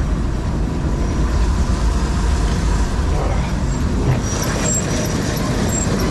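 John Deere 4400 combine running with a steady low rumble.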